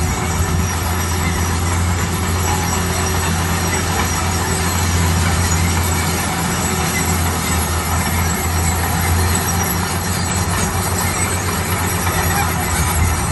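Bulldozer's diesel engine running steadily under work, a constant low drone with machinery rumble and clatter over it.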